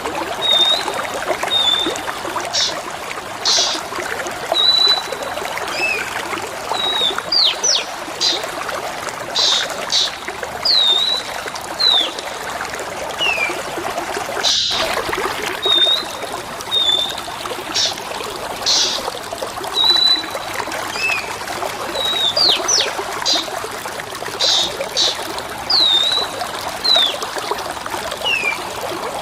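Steady trickle of running water with short whistled songbird calls over it: clear level notes, quick rising and falling sweeps and brief chirps, several every couple of seconds. A split-second cut comes about halfway through, and then the same sequence of calls repeats as a loop.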